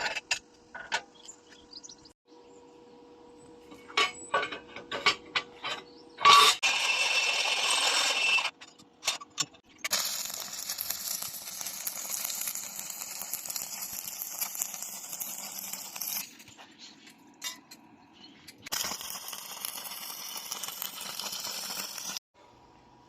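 Stainless-steel scrap being worked in a workshop: scattered metal clinks and clatter, then three stretches of steady harsh metalworking-tool noise that start and stop abruptly.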